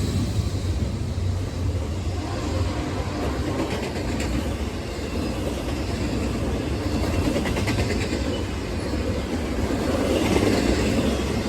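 A train rolling past on the tracks, a steady rumble of wheels on rail that swells slightly near the end.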